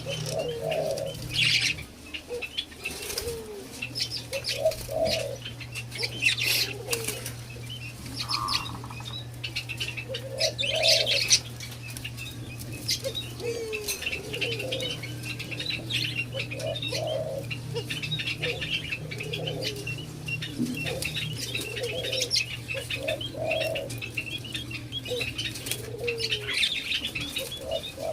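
White-eared brown doves fluttering their wings in short bursts, with repeated short low coos and a constant high chirping behind them. A steady low hum runs underneath and drops out briefly twice.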